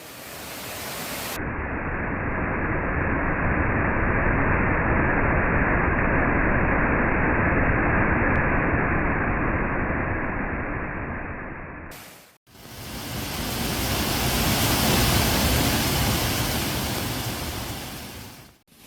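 Waterfall rushing: a steady noise of falling water heard in separate takes, with a short fade to silence about twelve seconds in. For most of the first part the upper hiss is missing, so it sounds duller.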